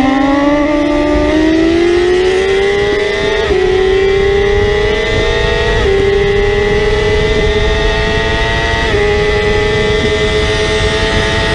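Superbike engine at full throttle, its pitch climbing steadily, with three quick upshifts where the pitch dips briefly before climbing again.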